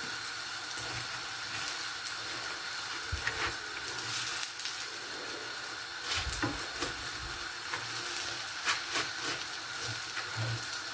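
Chapati frying in oil in a frying pan: a steady sizzle, with a few soft scrapes and taps of a metal spoon spreading oil over the chapati.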